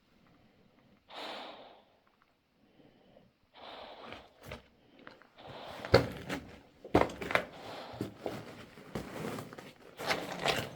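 A person breathing out in short, breathy puffs, then irregular footsteps and knocks crunching on loose rock, with the sharpest knocks in the second half.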